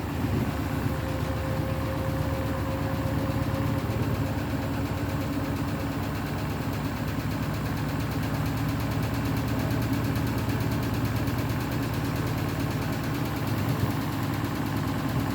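Beko WTK104121W washing machine spinning a sudsy load, a steady motor and drum hum that holds even throughout.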